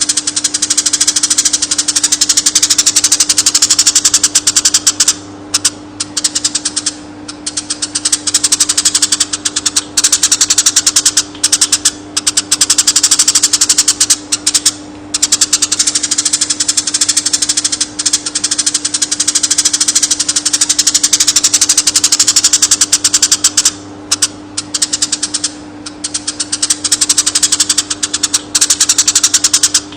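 Eurasian tree sparrow singing a long, fast rattling trill of chirps, nearly continuous with a few brief pauses, over a steady low hum.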